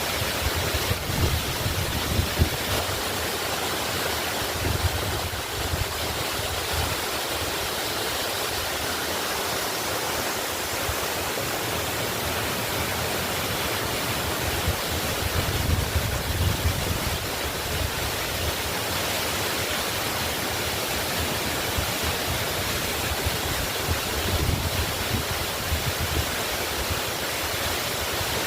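Waterfall rushing steadily, with a few brief low rumbles swelling up under it.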